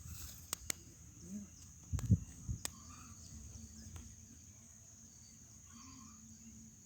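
Steady high insect chirring, with a few scattered clicks and knocks.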